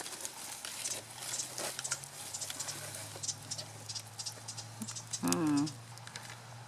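Soil and roots crackling and rustling as sweet potatoes are dug out of a pot by hand, a dense run of small clicks. A low steady hum sets in about a second in, and a short vocal sound comes near the end.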